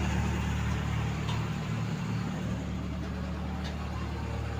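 A vehicle engine running steadily at idle, with a low, even hum and a couple of faint ticks.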